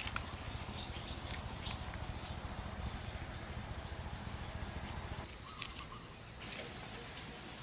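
Outdoor background ambience: a steady high chirring, with a low rumble that drops away about five seconds in and a few light clicks.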